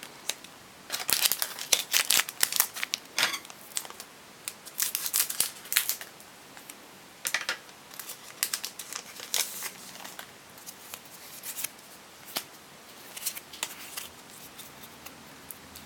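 Foil Pokémon trading-card booster pack being opened and its cards handled: irregular bursts of crinkling and tearing foil and rustling card stock, with short quiet gaps between them.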